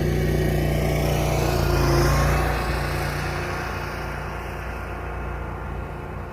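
A motor engine running steadily, growing louder to about two seconds in and then slowly fading, like a vehicle passing and moving away.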